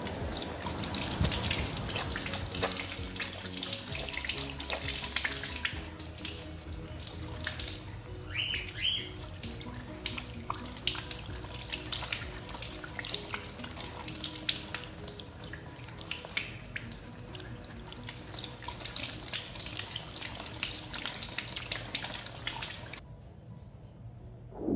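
Soft background music with running, splashing water, and a couple of short bird chirps about eight seconds in.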